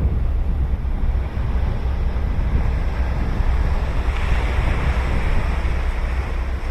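Ocean surf breaking on a beach, with wind rumbling on the microphone throughout. A wave breaks into a broad hiss about four seconds in.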